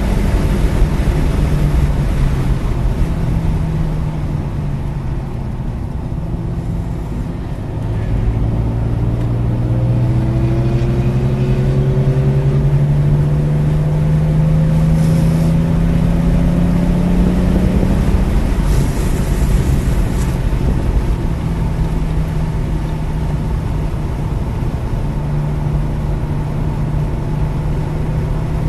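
BMW E46 M3's 3.2-litre straight-six engine heard from inside the cabin at track speed: it runs lighter for a few seconds, then pulls with its pitch rising steadily for about ten seconds, drops back, and holds steady over constant road and wind noise.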